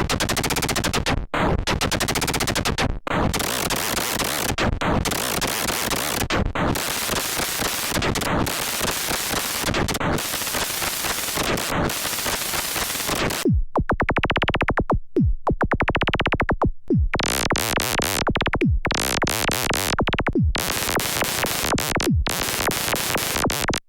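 A string of synthesized sounds from the Caustic 3 music app, one after another with short breaks between them. It starts with harsh, noisy buzzing tones. About halfway through come swooping sweeps and several quick falling sweeps.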